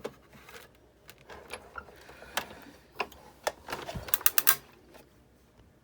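Sizzix Big Shot die-cutting machine and its cutting plates being handled and fed through for another pass: scattered sharp clicks and knocks, with a quick run of several clicks about four seconds in.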